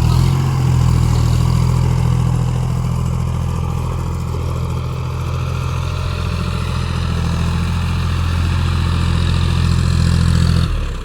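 Tractor engine running steadily at an even speed, then cutting off sharply near the end.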